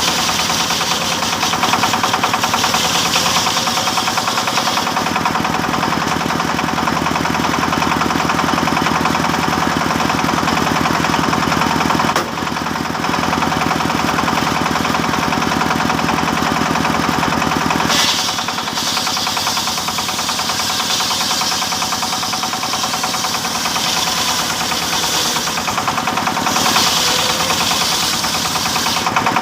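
A wood-sawing machine running steadily while it saws teak timber. A rough, rattling mechanical drone swells now and then with brighter, higher cutting noise.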